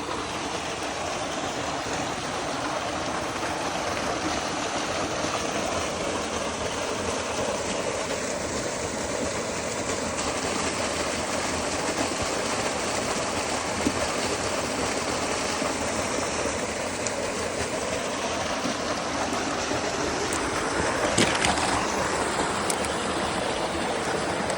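Rushing mountain river water, a steady, even rush, with a brief louder stretch and a few clicks near the end.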